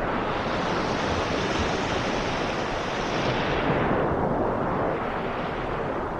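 Sea waves and rain: a continuous rush of surf that swells as a wave washes in, falls back about four seconds in, then begins to build again near the end.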